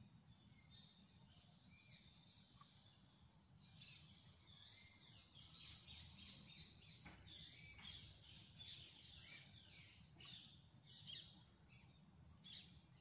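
Faint twittering of small birds: many quick high chirps, thickest from about four seconds in, over a low steady background hum.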